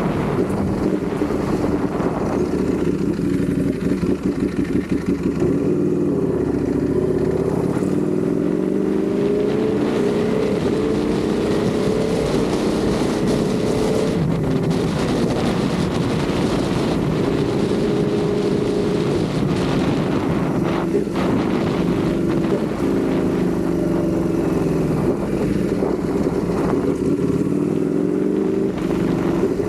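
Ducati Panigale V4 sportbike's V4 engine running under way, its pitch climbing and falling several times as the rider works the throttle, with wind rushing over the microphone.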